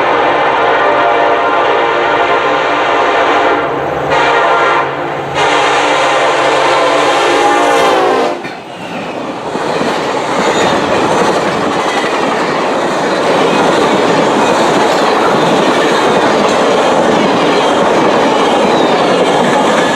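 Union Pacific office car special passing a grade crossing at passenger-train speed. The locomotive's horn sounds in long blasts, broken twice by short gaps, and its pitch drops about eight seconds in as the locomotive goes by. After that comes the steady rush and clatter of the passing train.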